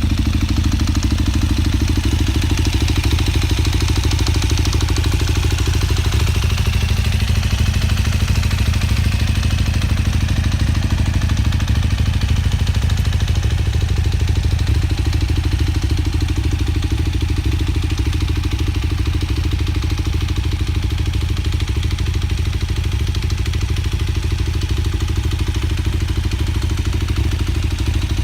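KTM 990 SMR's LC8 V-twin engine idling steadily through an Akrapovič exhaust, with an even, unbroken run of firing pulses.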